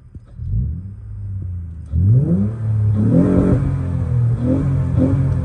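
Acura TL's V6 engine revving through its exhaust: the pitch climbs about half a second in, jumps sharply about two seconds in, then holds high with a few more quick blips of the throttle.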